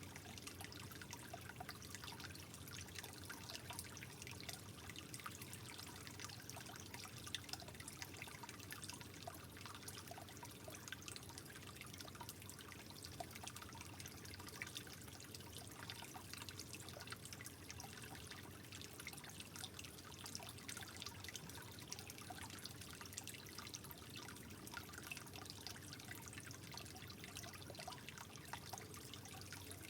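Soft water trickling steadily, full of small quick drips and plinks over an even wash.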